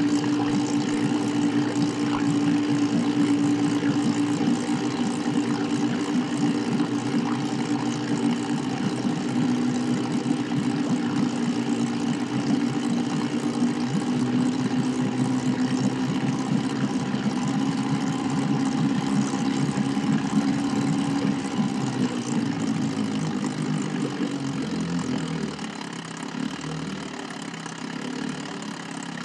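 Small boat's outboard motor running steadily, then throttled back to a lower, quieter run about 25 seconds in.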